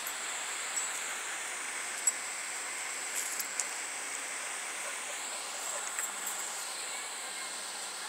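Steady high-pitched insect chorus that slowly swells and fades, with a few faint clicks and ticks.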